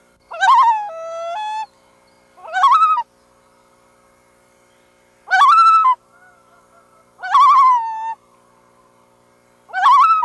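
Loons calling: five short, wavering calls with rich overtones, about two seconds apart. Each rises and then falls or steps to a held note.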